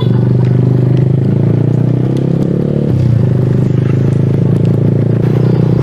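Suzuki Smash motorcycle's single-cylinder four-stroke engine running steadily, changing slightly in pitch about three seconds in.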